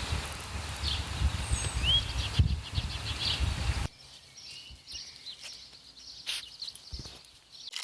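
Small birds chirping, with short upward-sweeping calls, over an uneven low rumble of wind on the microphone. About four seconds in, the sound cuts abruptly to a much quieter outdoor scene with only a few scattered chirps and clicks.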